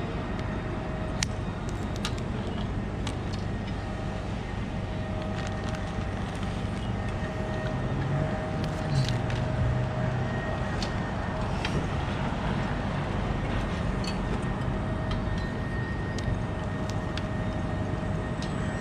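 Steady low engine rumble with a faint steady whine, as of a bucket truck's engine running to power its boom, with scattered light metallic clicks and taps.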